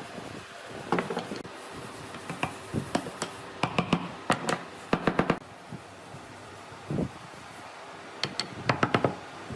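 Woodworking knocks and taps: wooden pieces being handled and struck, in irregular clusters of sharp hits, some in quick runs of three or four.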